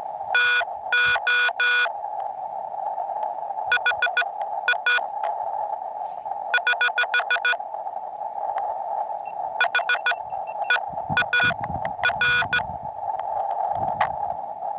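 Morse code (CW) tones keyed in dots and dashes from a portable ham radio transceiver, in several short groups over a steady narrow hiss of filtered band noise.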